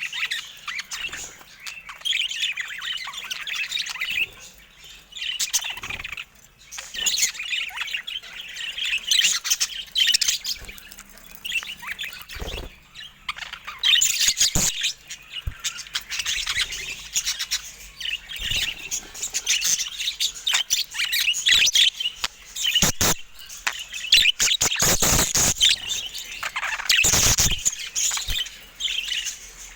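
Budgerigars chirping and chattering continuously, with several sharp knocks or taps in the second half.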